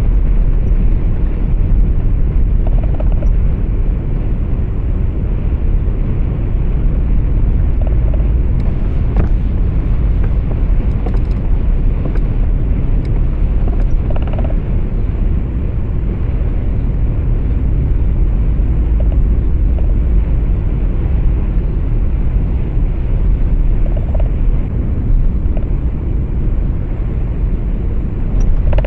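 Steady low rumble of a truck on the move, engine and tyre-on-road noise heard inside the cab, with a few faint ticks near the middle.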